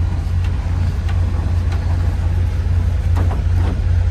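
Semi-truck diesel engine running, heard as a steady low drone inside the cab, with a few faint clicks.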